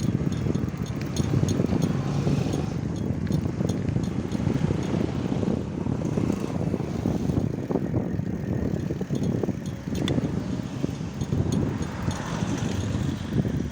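Wind buffeting the microphone while riding a bicycle, a steady fluttering low rumble.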